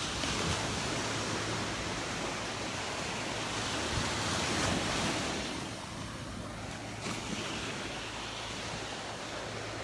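Surf washing onto a Gulf of Mexico beach: a steady rush of waves that swells about four to five seconds in, then eases off.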